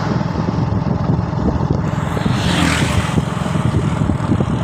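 Motorcycle engine running steadily while riding, with a low, even pulse. A short rush of hiss comes about halfway through.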